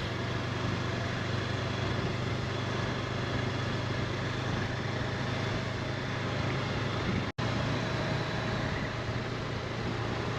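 Honda CB500X's parallel-twin engine running at a steady cruise, under a steady rush of wind and road noise. The sound cuts out for an instant about seven seconds in, and the engine note then sits a little lower.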